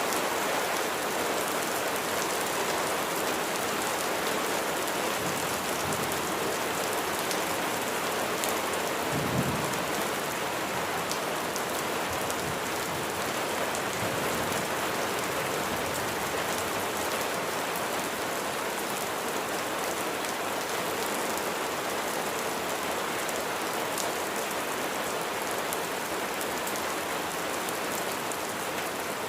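Steady heavy rain falling, with a short low rumble of thunder about nine seconds in.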